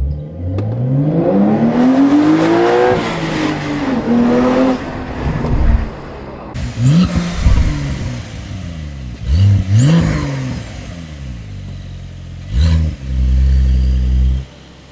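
A Porsche 992 911's twin-turbocharged flat-six revs through a valved titanium exhaust. It pulls hard with the pitch climbing over the first few seconds, then eases off. Several quick revs come after, and it ends in a loud, steady low drone that cuts off suddenly near the end.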